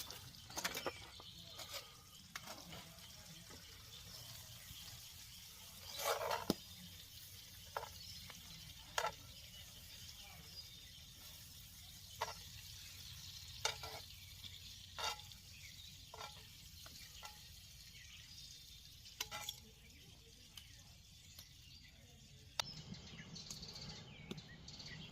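Steak frying, with a steady sizzle and scattered sharp pops throughout.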